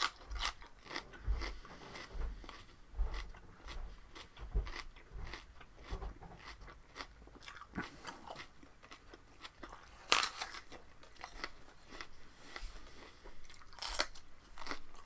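A person biting and chewing raw vegetables close to the microphone: wet, crisp crunches and crackles throughout, with the sharpest bite about ten seconds in and another near the end.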